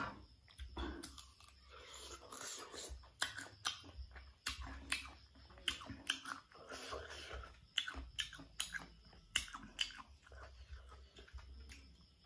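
A person biting and chewing crisp slices of unripe green mango, with repeated sharp crunches at an irregular pace.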